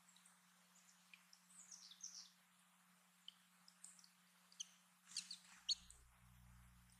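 Faint chirps and short calls of small songbirds, scattered through, with a quick cluster of sharp high chips about five seconds in, the loudest part. A faint steady low hum lies underneath.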